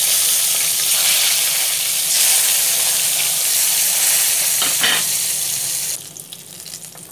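Salt-and-turmeric-coated eggplant pieces frying in hot mustard oil in a pan: a loud, steady sizzle that drops off abruptly about six seconds in, then carries on much quieter.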